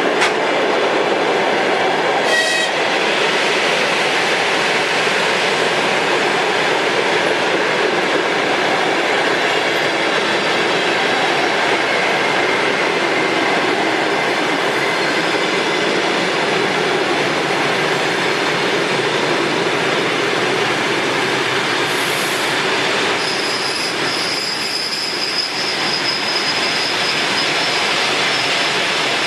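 Passenger coaches of an arriving express train rolling steadily past as it brakes. The wheels run with a continuous rumble, and thin, high squeals come from the brakes and wheels, the highest one near the end.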